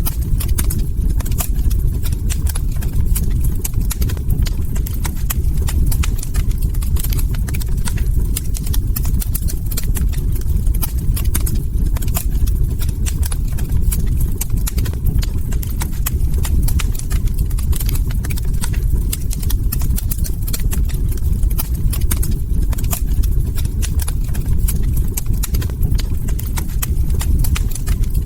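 Log fire crackling steadily: a constant low rumble of burning wood with dense, irregular small pops and snaps throughout.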